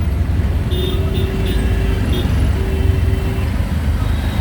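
Auto-rickshaw engine running with a steady low rumble amid street traffic, with a few short high-pitched horn beeps about a second in.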